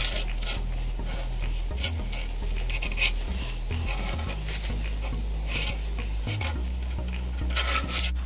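Pen scratching and rubbing on paper while tracing around a steel axe head, with light scrapes of the head shifting on the paper. Background music with a slow, stepping bass line plays throughout.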